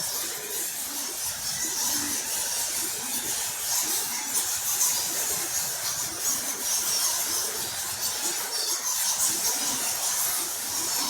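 A roosting colony of bats squeaking: a dense, continuous high-pitched chatter of many short squeaks, echoing in a stone chamber.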